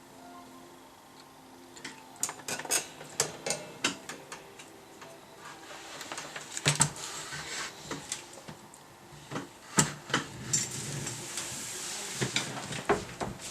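Irregular clicks, taps and light clatter of small hard objects being handled, becoming busier partway through, with a faint hiss near the end.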